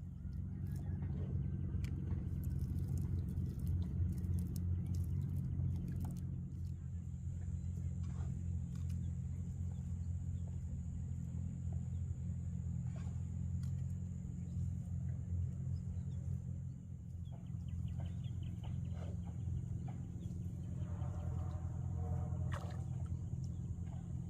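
An engine running steadily with a low, even hum, with a short animal-like call near the end.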